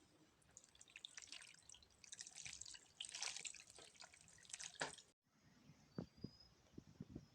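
Faint wet dripping and crackling of liquid, a dense patter of small crackles for about five seconds, then a break followed by a few soft low taps.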